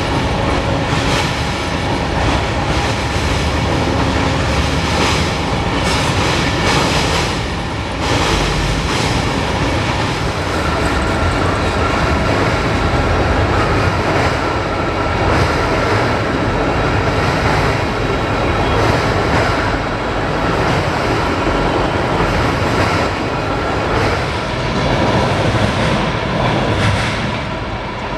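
Canadian Pacific freight train cars rolling steadily past, steel wheels clicking over the rail joints, with a faint steady high wheel squeal from about ten seconds in.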